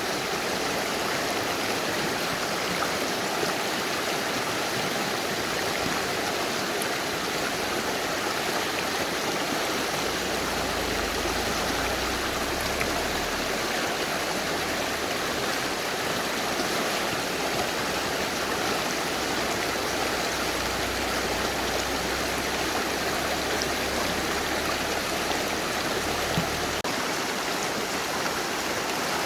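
Mountain river flowing: a steady, even rush of water. A low rumble joins in about a third of the way through and stops near the end.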